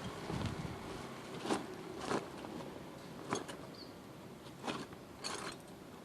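Irregular mechanical clicks and knocks, about six of them spread unevenly across a few seconds, from hand work on a stopped Kubota RD105 engine.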